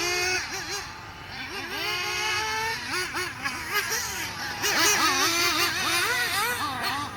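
Rebuilt S-Power S7 nitro RC engine running under throttle, its high-pitched whine rising and falling over and over as the throttle is blipped and released.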